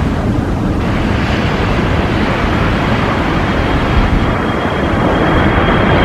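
Jet airliner engine sound, a steady loud rush with a thin high whine coming in about halfway.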